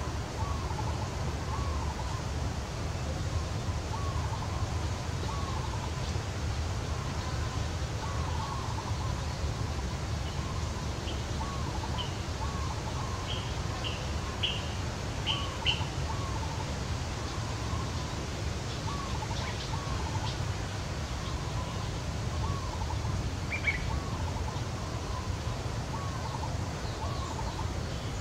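Birds calling: a short call repeated about once a second, with a brief run of higher, sharper chirps midway, over steady low background noise.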